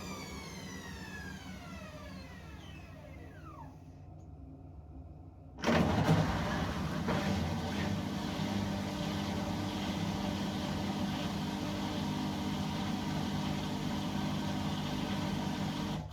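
An appliance motor whines and falls steadily in pitch as it spins down and fades. About five and a half seconds in, a loud rush of water and a steady motor hum start suddenly and keep going: the machine moving to its next stage of a quick cleaning cycle.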